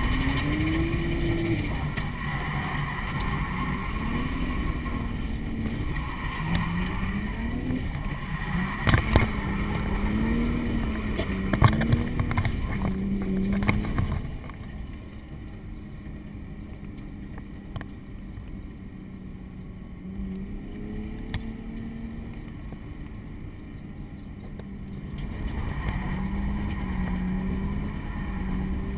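Drift car's engine heard from inside the cabin, revving up and down hard through a drift run, with a few sharp knocks about a third of the way in and again just before the middle. About halfway it drops quieter and holds a steady note, then picks up again near the end.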